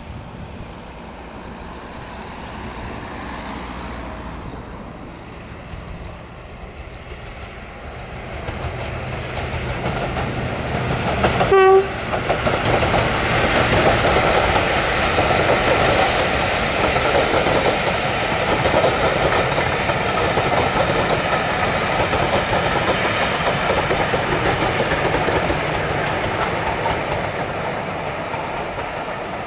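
A train approaching and passing, its sound building over about ten seconds. A short toot comes about twelve seconds in, followed by loud, steady running noise of the passing train that eases off slightly near the end.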